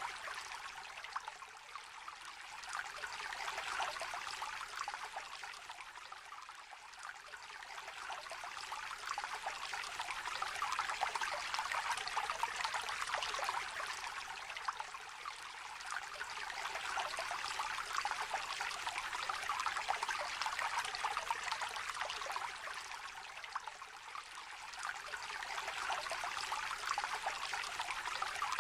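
Small river trickling and babbling: a steady rush of water that swells and eases every several seconds.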